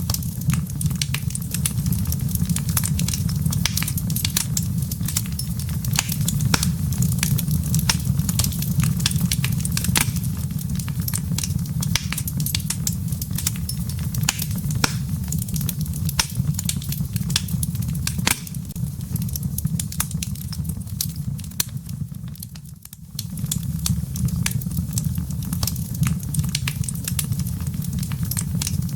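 Wood fire burning in a fireplace, its embers crackling with dense, irregular pops over a steady low rumble. The sound dips briefly about three quarters of the way through.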